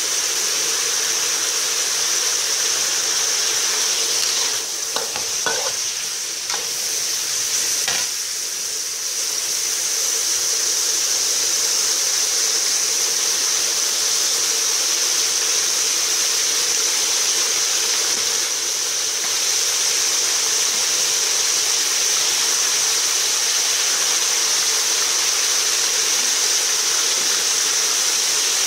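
Sliced meat sizzling steadily as it fries in a metal wok, with a few brief knocks of the metal spatula against the pan about five to eight seconds in.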